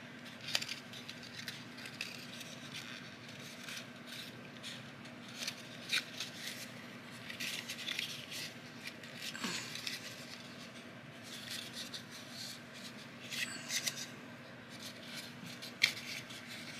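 Paper being handled and folded: soft rustles, scrapes and light taps in scattered handling sounds, a few sharper clicks among them.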